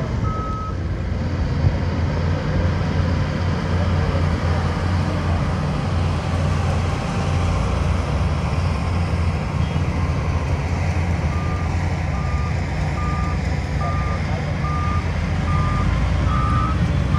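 Heavy diesel construction machinery running with a steady low engine rumble. A reversing alarm beeps once near the start, then beeps steadily a little more than once a second from about two-thirds of the way in.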